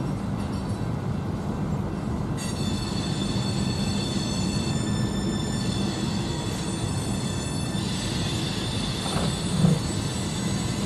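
Freight train of boxcars rolling past with a steady rumble; about two seconds in, high-pitched wheel squeal from the rails joins it and keeps on. A brief thump near the end is the loudest moment.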